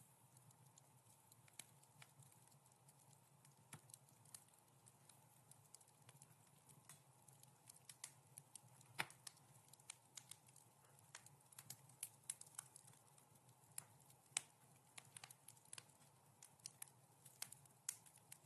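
Wood fire crackling softly: irregular sharp pops and snaps, some louder than others, over a faint steady hiss.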